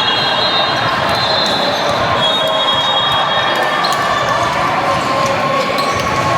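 Echoing din of a busy volleyball gym during play: many voices blended together, high drawn-out squeaks, and scattered ball hits and bounces.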